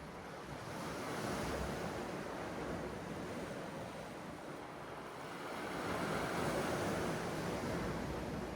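Sea waves breaking and washing ashore, with two swells about a second in and again about six seconds in.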